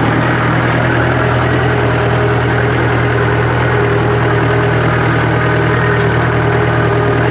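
Tractor diesel engine held at a steady speed of about 1500 rpm, running evenly without changing pitch.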